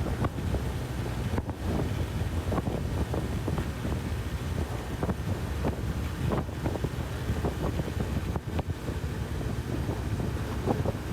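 Wind buffeting the microphone of a Honda CB1000R motorcycle at road speed, in irregular gusts over a steady low rumble of engine and road.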